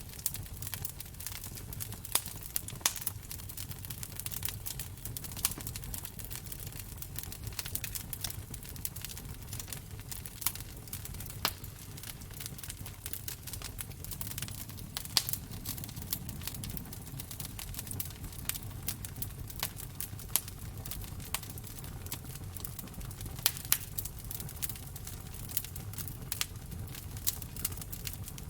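Wood fire in a fireplace crackling, with frequent irregular pops and snaps over a low steady rumble of the flames.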